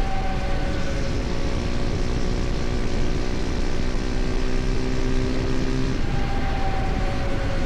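KTM Duke 250's single-cylinder four-stroke engine running at a steady cruise with heavy wind and road noise. About six seconds in, the steady engine note changes and a higher tone slides down in pitch.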